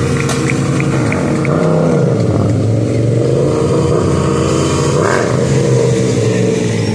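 Small mini bike engines running and revving, their pitch rising and falling as several run at once. A faint ticking, about four a second, stops about a second and a half in.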